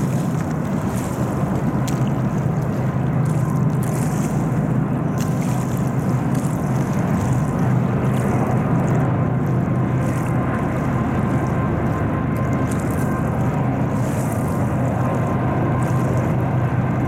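Steady low drone of a passing freight train's diesel locomotives, an EMD SD40-2 leading a GE GEVO, with the hiss of the moving train underneath.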